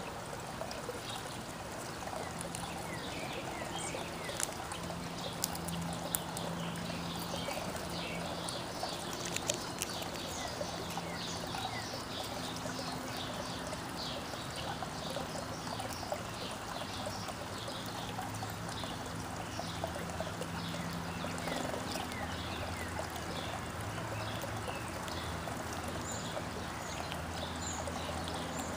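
Many small backyard birds chirping, with short high calls throughout, over a steady trickle of running water and a faint low hum.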